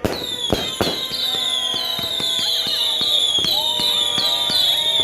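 New Year fireworks going off: a few sharp bangs in the first second, then a steady run of short high whistles, each falling slightly in pitch, about three a second.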